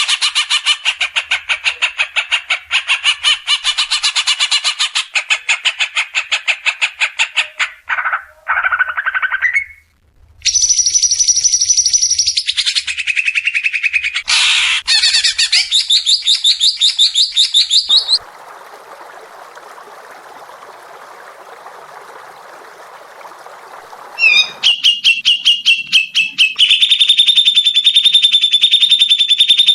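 Songbird song recorded for cage-bird tutoring: fast runs of sharp repeated notes and chattering phrases, a quieter rasping hiss in the middle, then a rapid high trill held on one pitch near the end.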